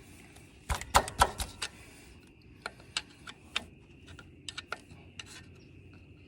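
Screwdriver tip clicking and scraping on a steel lock ring (snap ring) on the tractor's drive shaft as the ring is pushed to check it is seated. A quick cluster of sharp metal clicks comes about a second in, then scattered lighter clicks.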